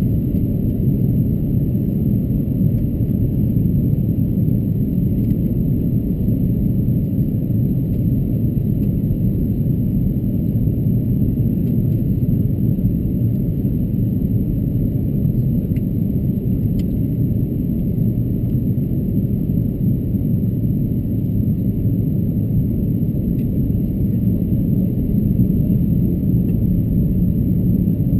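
Steady low rumble of cabin noise inside an Airbus A330-223, the Rolls-Royce Trent 700 engines and the airflow blending into an even drone that holds unchanged.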